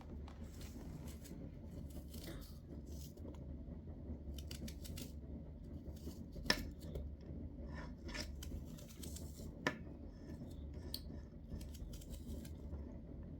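Scattered light clicks and taps of small objects being handled, the sharpest about halfway through and another a few seconds later, over a low steady hum.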